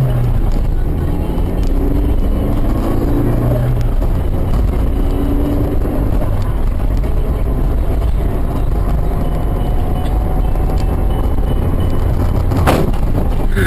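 A road vehicle driving: a loud, steady rumble of engine and road noise, with a pitched engine drone in the first four seconds and a single sharp knock near the end.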